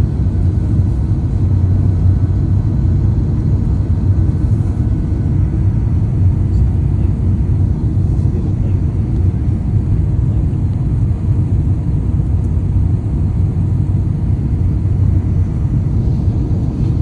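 Steady low rumble of airliner noise, loud and unchanging, with no rise or fall in pitch.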